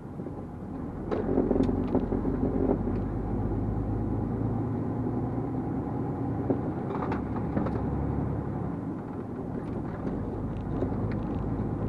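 The six-cylinder diesel engine of a MAN TGX 470 lorry running under load, heard from inside the cab as a steady low drone. It gets louder for a couple of seconds about a second in.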